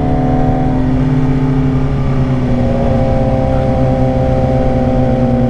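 Suzuki GSX-R 600 inline-four engine running at a steady cruise, heard from the rider's helmet mic with wind noise underneath; its pitch dips slightly about halfway through.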